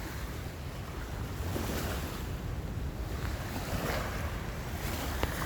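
A river in flood rushing fast past a launch ramp, a steady wash of moving water with wind buffeting the microphone. A single small click sounds near the end.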